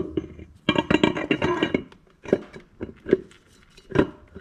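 Torque converter being turned and pushed onto a TH350 automatic transmission's input shaft, metal on metal: a sharp clunk, about a second of clattering rattle, then several separate knocks as it works in toward seating by clicks.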